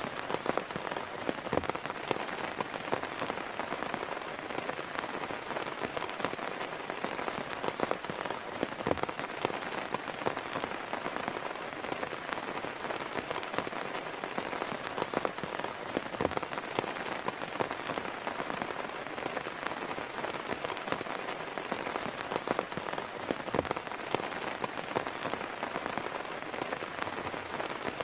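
Heavy rain falling steadily, with many individual drops striking a surface close by in sharp taps.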